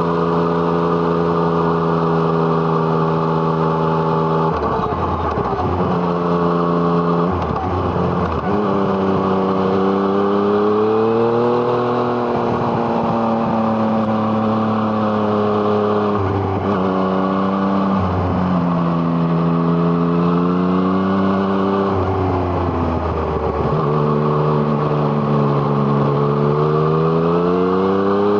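Yamaha MT-09's three-cylinder engine through an Arrow Thunder exhaust under way. The engine note holds steady for a few seconds at a time, then breaks and drops several times before picking up again, climbing at the end as the bike accelerates.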